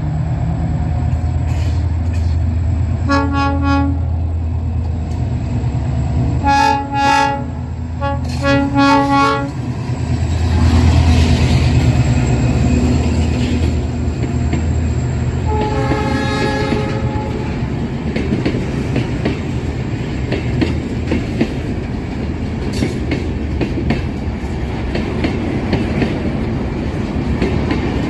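EMD GT22CW diesel-electric locomotive with an EMD 645 engine rumbling as it passes, sounding its multi-tone horn four times, the last blast the longest. Then the empty freight wagons roll by with a steady clickety-clack of wheels on the rails.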